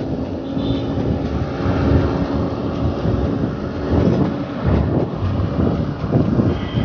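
Motor traffic on the road, with a steady engine drone that fades about two and a half seconds in, under a constant low rumble of wind on the microphone.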